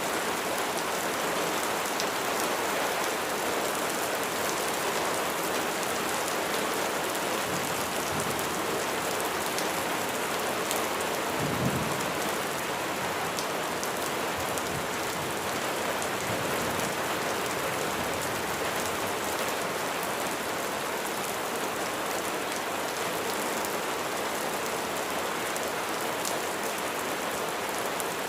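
Steady rain falling on a surface, a dense even hiss, with one brief low thump about twelve seconds in.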